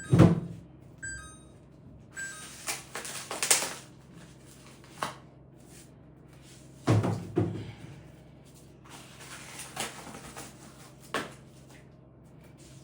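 Scattered knocks, thuds and rustling as oranges are packed into a refrigerator's vegetable drawer, with the loudest thump about seven seconds in.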